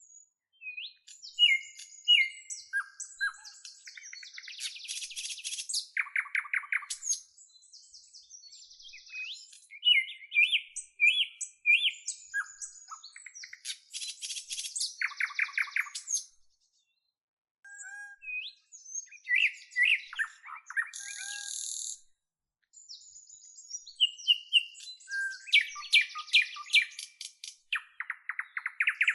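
A songbird singing long, varied phrases of whistles, chirps and rapid trills, with short pauses between phrases.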